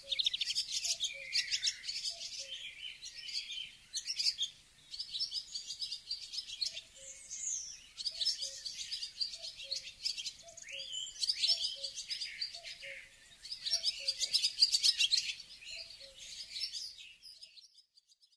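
Small birds chirping and twittering in bursts, with a faint lower call repeating steadily underneath; the birdsong fades out near the end.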